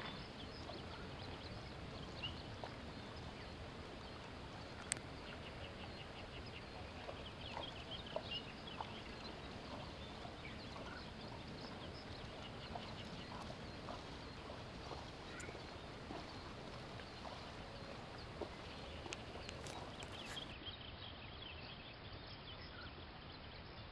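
Faint outdoor ambience: a steady low background rush with birds chirping in short rapid trills and a few sharp clicks, the loudest about five seconds in.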